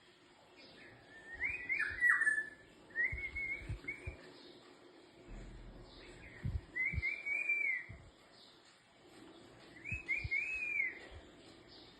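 Golden oriole singing: short, fluty whistled phrases of a few linked notes, repeated about four times a few seconds apart. A few low thumps sound alongside.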